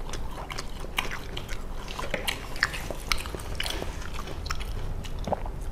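Close-miked chewing and biting of fried street snacks, with many small wet mouth clicks and smacks.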